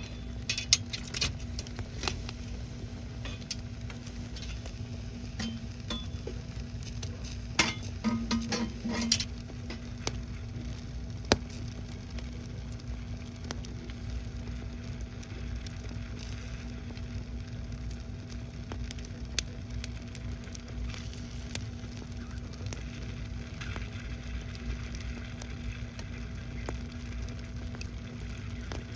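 Horned turban shells sizzling over a wood fire, with scattered sharp crackles and clicks; a cluster of clinks comes about eight seconds in.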